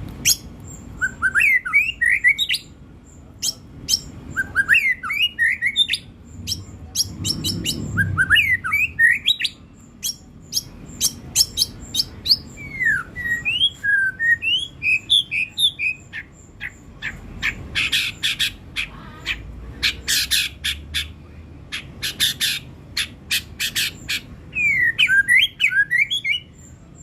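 Songbird singing in bursts every few seconds: quick rising and falling whistled notes mixed with runs of sharp clicking notes.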